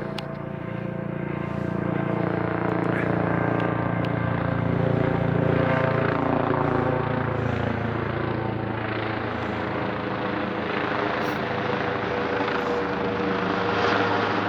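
Skyteam 50cc monkey bike's small single-cylinder engine running under load as the bike is ridden along the road, fitted with a freer intake and a race-tuned ECU. Its steady note grows louder over the first few seconds, eases a little, then rises again near the end.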